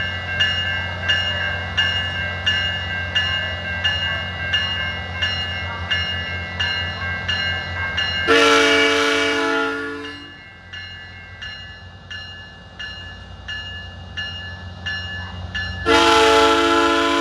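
Railroad crossing bells dinging about three times a second over a diesel locomotive's low rumble as a commuter train departs. A chime horn sounds one long blast about eight seconds in, lasting nearly two seconds, then starts another near the end.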